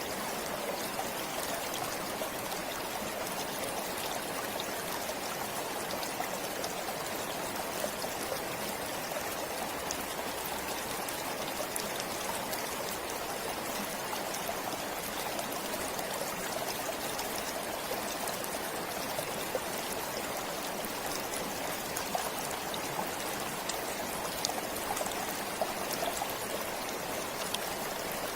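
A forest stream flowing steadily over rocks, an even rushing with small splashes and trickles.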